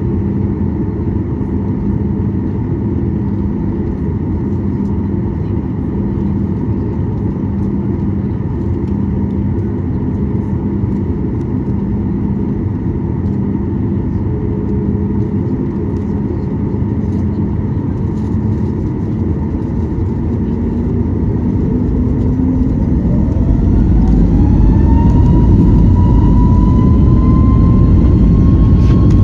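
Boeing 737 MAX 8's CFM LEAP-1B jet engines, heard from the cabin: a steady low drone at low thrust, then, about three-quarters of the way through, a whine rising in pitch and levelling off as the engines spool up to takeoff thrust and the sound grows louder.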